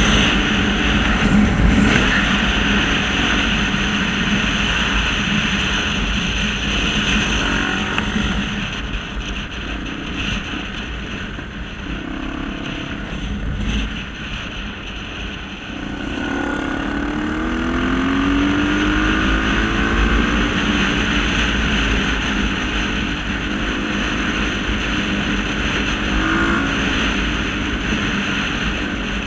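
Off-road motorcycle engine running and revving, its pitch rising and falling several times a little past the middle.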